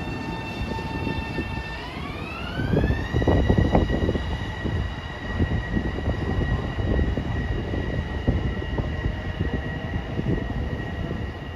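Electric multiple-unit commuter train's traction motors whining as it accelerates. The pitch climbs steeply for about a second and a half near two seconds in, then holds steady over a loud rumble and clatter of wheels on the rails that swells at the same time.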